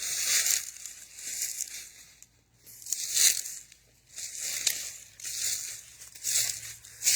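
Footsteps crunching through dry leaves and brush, an uneven crunch or rustle about every second.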